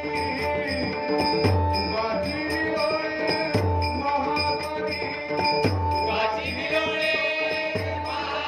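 Bhajan music: singing over held pitched tones, with a deep drum stroke about every two seconds and small cymbals ticking a fast, steady beat.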